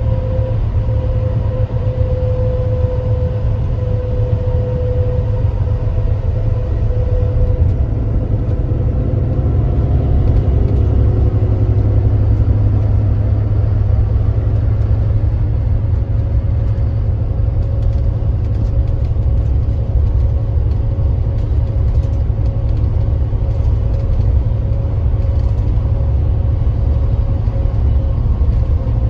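Engine of a 2025 Kia Granbird Sunshine coach bus running under way: a steady heavy low drone with a faint whine on top.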